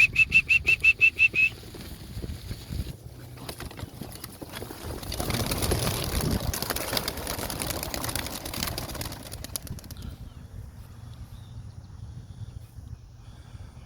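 Young racing pigeons' wings flapping as the flock flies. The wingbeats build to a rush about five seconds in and fade out at around ten seconds. A quick run of about eight high beeps comes first and is the loudest sound.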